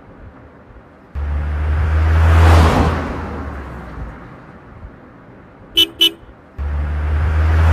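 Car sound effects: a passing car's engine rumble swells and fades, two quick horn beeps follow, then a second car rumble swells in. The rumbles start abruptly, as laid-in effects do.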